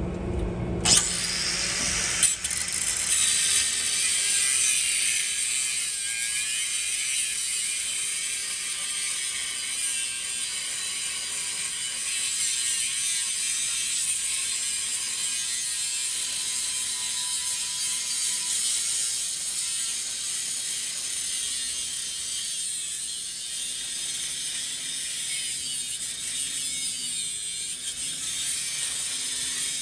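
A power tool cutting through the steel exhaust pipe with a steady, harsh, high-pitched mechanical rasp. Two sharp clanks sound near the start.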